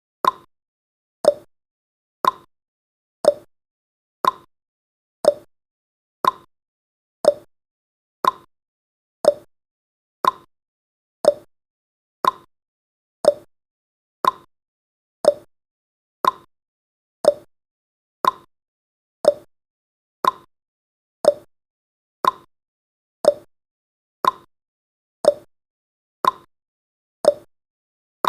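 Countdown timer's tick sound effect: one short, quickly fading tick every second, evenly paced.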